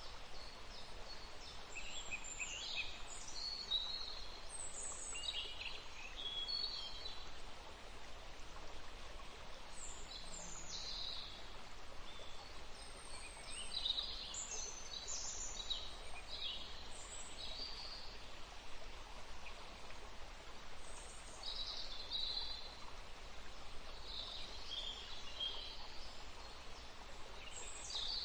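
Several songbirds singing, with quick chirping phrases coming in clusters every few seconds, over a steady low hiss of outdoor background noise.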